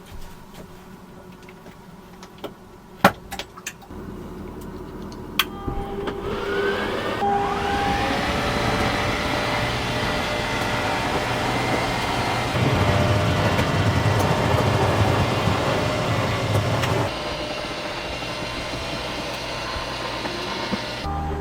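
A vehicle engine running, with a rising whine as it picks up speed about six seconds in and again at the end. A few sharp clicks sound in the quieter first four seconds.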